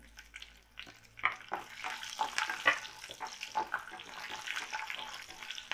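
Garlic and ginger sizzling and crackling as they fry in hot mustard oil with whole spices in a kadhai. The crackle starts about a second in and grows denser soon after.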